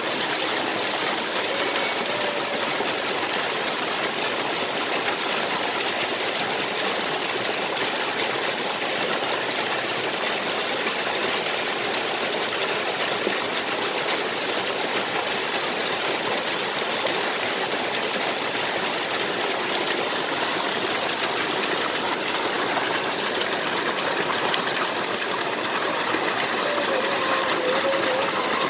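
Waterfall and stream water rushing in a steady, even flow.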